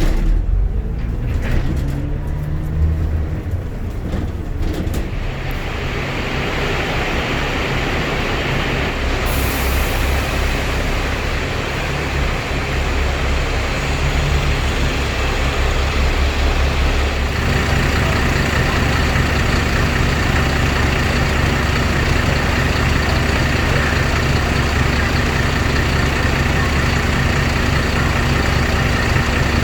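A bus engine pulling away, its note rising over the first few seconds, then running steadily under a constant rush of road and air noise.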